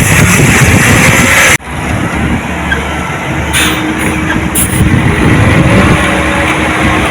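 Heavy diesel earthmoving equipment running loudly. About a second and a half in, the sound cuts abruptly to a somewhat quieter engine noise with a faint steady hum.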